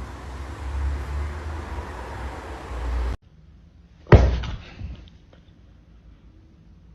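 A low rumbling noise that cuts off suddenly, then about a second later a single loud bang, like a slam, dying away quickly.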